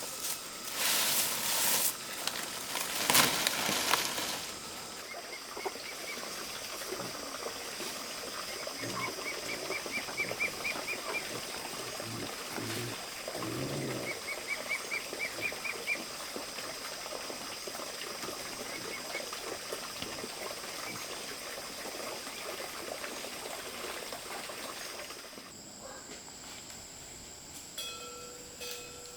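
Two loud rushing noises in the first four seconds, then a steady high insect drone with three short trills of rapid chirps and a few low animal sounds.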